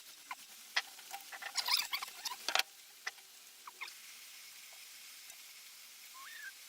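A quick run of light clicking and rattling, like tools and small metal parts handled on a workbench, then a few separate clicks. A faint short squeak comes near the end.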